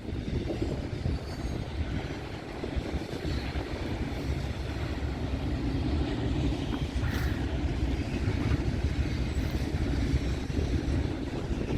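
Freight train rolling past: a steady low rumble of the cars on the rails.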